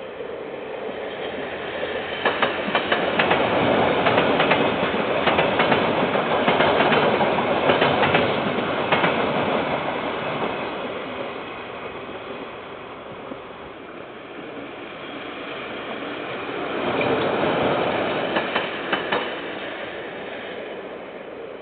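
KiwiRail freight train's wagons rolling past, wheels clicking over rail joints; the noise builds, holds for several seconds, then fades, with a second, shorter swell of clicks near the end.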